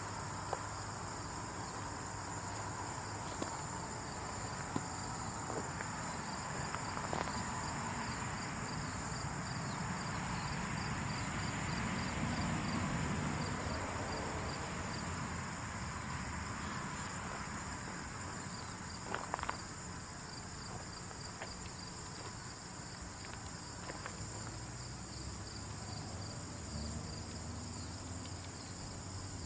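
Insect ambience: a steady high buzz with a fast, even pulse of cricket-like chirping, faint scattered ticks and crackles, and a low rumble that swells and fades in the middle.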